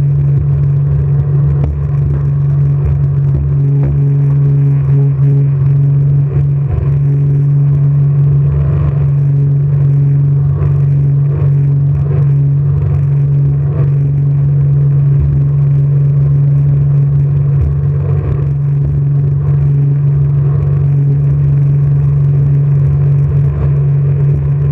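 Jet boat engine running at steady revs, a constant drone, with uneven low rumbling from wind buffeting the camera microphone.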